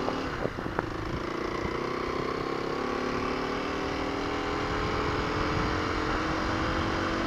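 2021 Kawasaki KLX250's single-cylinder four-stroke engine pulling steadily while riding, its pitch rising slowly as the bike gains speed, over low wind and road rumble.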